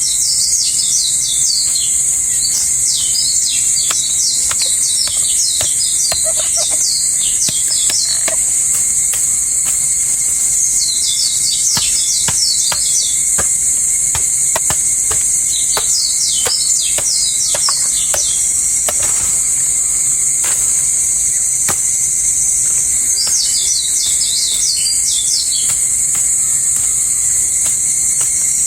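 Forest ambience: a steady, loud, high-pitched insect drone, like cicadas or crickets, with bird song phrases of quick falling chirps in four bouts. Scattered light ticks or taps are heard among them.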